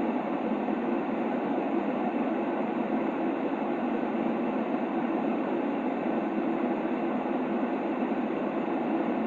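Steady white noise for sleep, filtered to a soft, low hushing rumble with no change, rhythm or tone.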